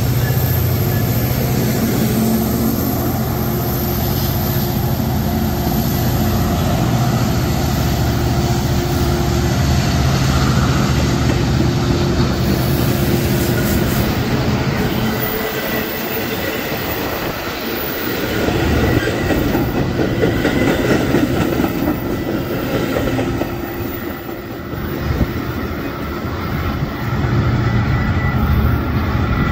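Metra diesel locomotive pulling a commuter train out, its engine a heavy low rumble for about the first half. It is followed by bilevel passenger cars rolling past with wheel clatter and some wheel squeal as the train draws away.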